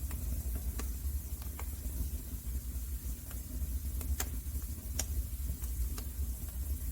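Wood fire crackling in a fireplace: irregular sharp pops and snaps over a steady low rumble and hiss.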